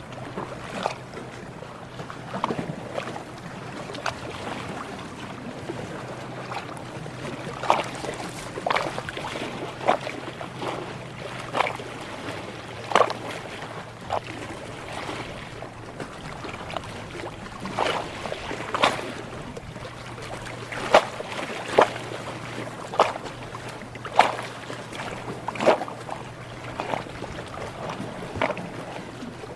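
Small waves lapping and slapping against a hull or shore in short, irregular splashes, roughly one a second, over a steady low hum.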